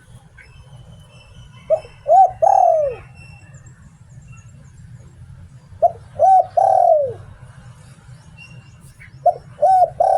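Spotted dove cooing in three phrases about four seconds apart. Each phrase is two short coos followed by a longer coo that falls in pitch, the 'liu tan' call pattern. Faint chirps from other birds are heard in the background.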